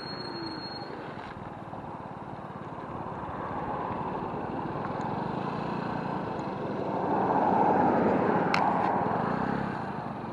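Steady road and wind noise from riding an electric scooter over pavement, swelling louder for a couple of seconds near the end, with a single sharp click.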